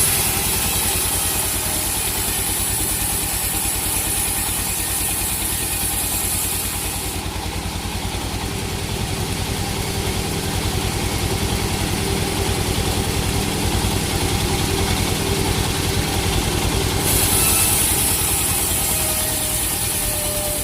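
An engine running steadily at low speed with a fast, even firing beat. A high hiss lies over it for the first third and again near the end.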